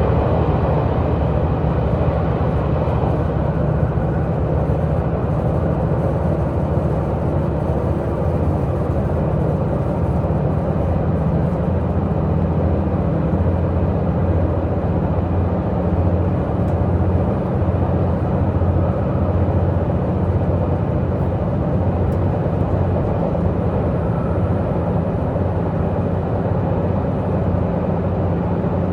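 Diesel multiple-unit Tze-Chiang express heard from inside the passenger cabin while running at speed: a steady diesel engine drone under a constant rumble of wheels on rail, likely inside a long tunnel.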